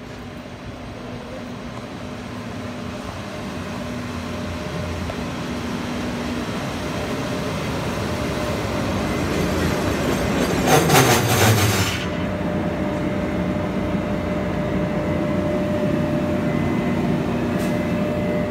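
Train hauled by a Taiwan Railways E300-class electric locomotive running into a station. A steady rumble grows as it approaches, and the locomotive passes close by about eleven seconds in with a loud noise that falls in pitch and then drops away. Passenger cars roll past after it, with a faint high steady squeal as the train slows for its stop.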